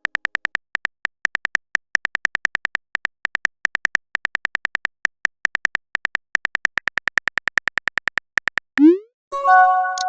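Phone-keyboard typing sound effect: rapid short high clicks, several a second, as a text message is tapped out. Near the end a quick rising swoosh, then a chiming message notification tone.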